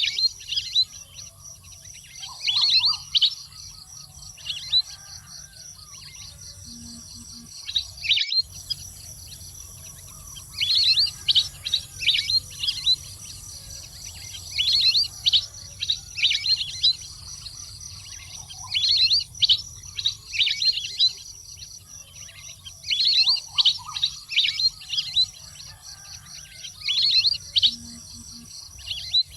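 Waterfowl calling: clusters of short, high whistled chirps that come every few seconds, over a steady low hum and a faint high steady whine. The same sequence seems to repeat about every 21 seconds, as a looped call recording would.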